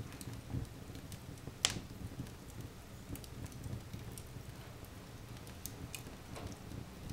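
Open fire burning in a fireplace: a steady low rumble of flames with scattered crackles and pops, one sharper pop about one and a half seconds in.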